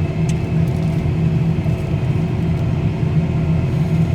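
Tractor engine running steadily under load, heard from inside the cab as a low, even drone with a few steady tones above it. One brief click about a third of a second in.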